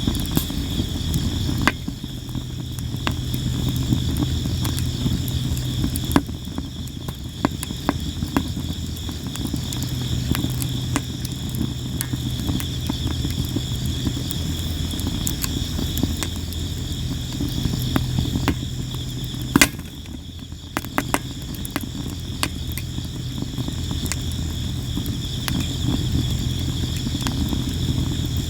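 Sawara cypress wood burning in a campfire, crackling and popping constantly, with one loud pop about twenty seconds in. Crickets chirp steadily behind it.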